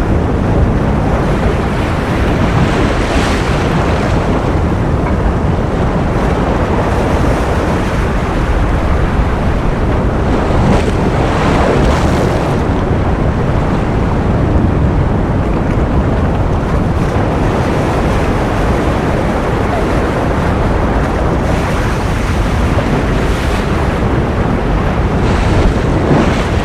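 Ocean surf: a steady rush of waves, with a few louder swells breaking and washing in every several seconds.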